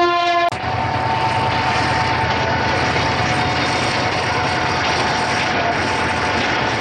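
Diesel-hauled passenger train of the Bangladesh Railway rolling past and away, a steady rumble of wheels and engine with a steady whine over it. A short pitched tone at the start cuts off abruptly about half a second in.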